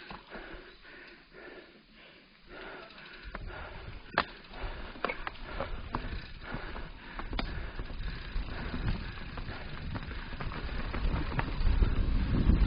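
Mountain bike riding down a dirt singletrack: from about three seconds in, a rising rumble of tyres and wind on the microphone grows louder, broken by sharp clacks of the bike over roots and rocks.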